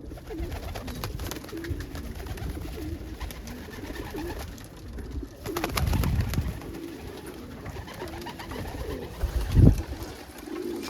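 Domestic pigeons cooing in a loft, several birds' low coos overlapping. A louder rustling patch comes about six seconds in, and a short low thump near the end.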